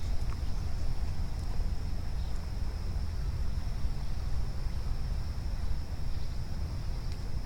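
A steady, unbroken insect chorus at one high pitch, over a low rumble of wind on the microphone.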